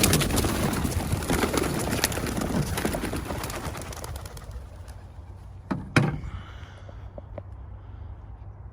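A flock of racing pigeons released from a transporter, their wings clattering as they take off together, loudest at first and fading over a few seconds as they fly off. Two sharp knocks follow about six seconds in.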